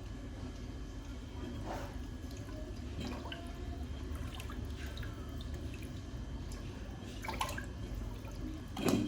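Water pouring and dripping, with a few light clinks and knocks and a louder knock near the end.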